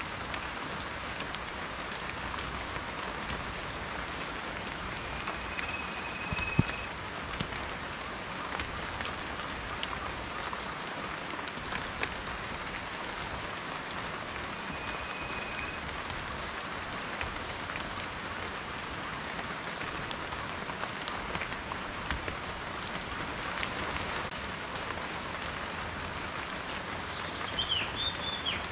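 Steady rain falling, an even hiss of rainfall with individual drops ticking and tapping throughout, one sharper tap about six seconds in.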